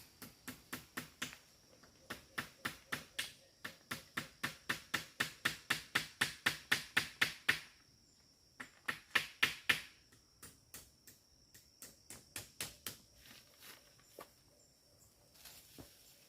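Several quick runs of rhythmic strokes, about four or five a second, growing stronger to about seven seconds in and thinning to scattered strokes after ten seconds, typical of hand work with a tool on wood. A faint steady high insect drone runs behind.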